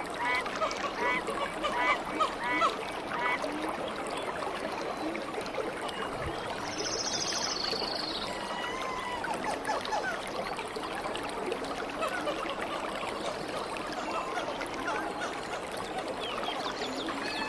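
Trickling stream water under many bird calls, with a run of quick repeated calls in the first three seconds and a short, high buzzing trill about seven seconds in.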